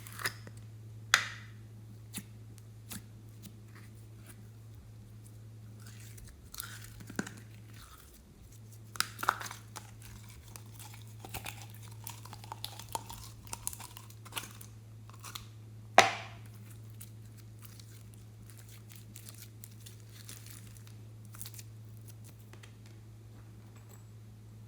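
Hands handling slime and small plastic items: scattered crinkling, squishing and clicking, with a sharp tap about a second in and another about two-thirds of the way through, over a steady low hum.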